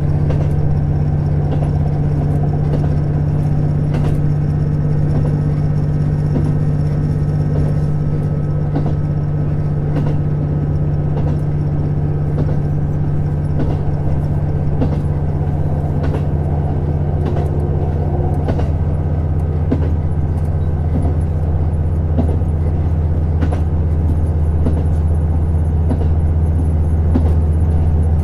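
Interior running sound of a JR Hokkaido KiHa 150 series diesel railcar under way: a steady, loud diesel engine drone with scattered clicks and knocks from the running gear.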